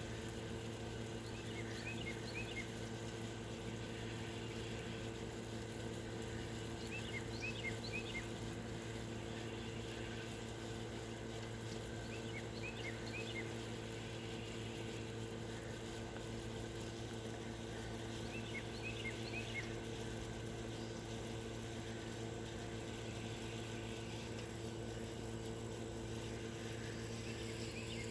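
A songbird repeating a short phrase of quick high chirps about every five to six seconds, over a steady low mechanical hum.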